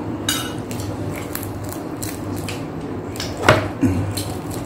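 Close-miked eating sounds: people chewing pork and kare-kare by hand, with many short wet crackles and clicks and one louder smack about three and a half seconds in.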